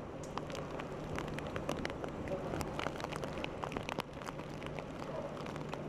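Heavy rain falling, with many sharp drops striking close by at irregular moments over a steady rushing hiss and a low steady hum underneath.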